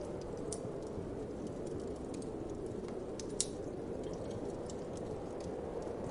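Wood fire crackling with many small irregular pops and one sharper pop about three and a half seconds in, over a steady whoosh of wind.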